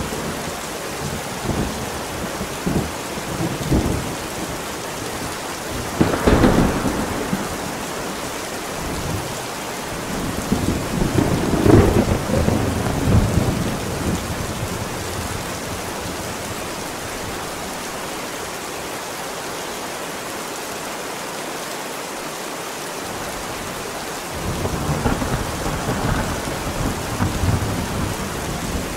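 Heavy steady rain with rolls of thunder: a rumble about six seconds in, a longer one around twelve seconds, and another building near the end.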